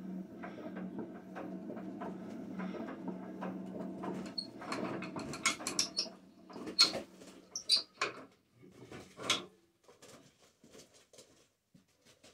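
Witte single-cylinder diesel generator being hand-cranked, turning over with a steady hum for about five seconds without starting. The cranking then stops, and a series of metal clicks and knocks follows.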